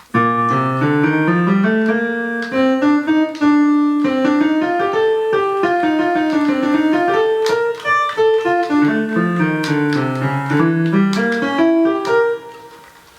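Piano voice of the Travel Sax 2 electronic wind instrument: a melody of single sampled piano notes, one at a time, rising and falling in pitch. It stops about twelve seconds in and the last note rings away.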